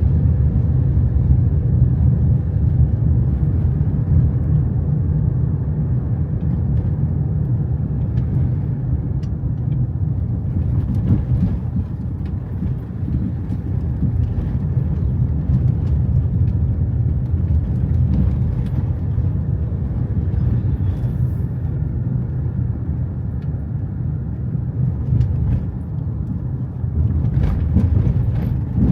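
Steady low rumble of a car on the road, engine and tyre noise, with a few faint ticks near the end.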